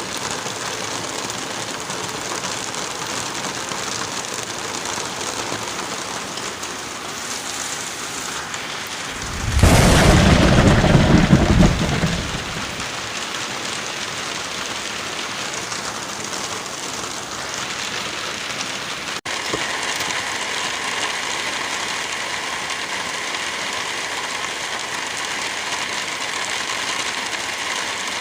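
Steady rain with one long rumble of thunder about ten seconds in, lasting around three seconds and much louder than the rain. A brief gap comes about two-thirds through, after which the rain's texture changes slightly.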